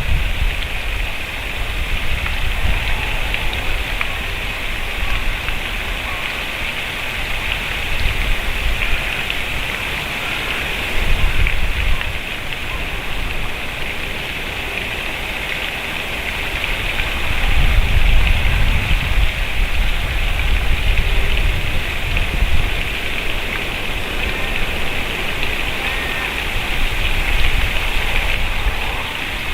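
Steady outdoor noise hiss with low rumbling surges from time to time, strongest about eighteen to twenty seconds in; no clear woodpecker call stands out.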